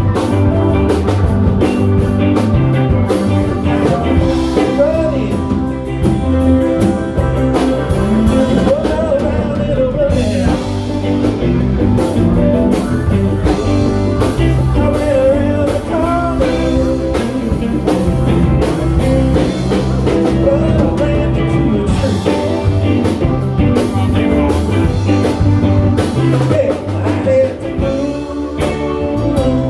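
Live band playing a blues-flavoured tune: guitar and drums under a bending, wavering lead melody, with a steady rhythm throughout.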